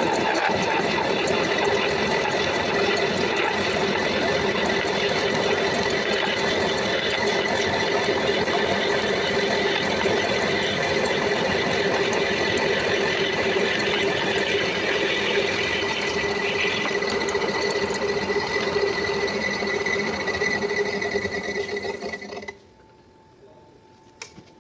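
Metal lathe running, a steady mechanical rattle with a steady whine, which cuts off abruptly near the end.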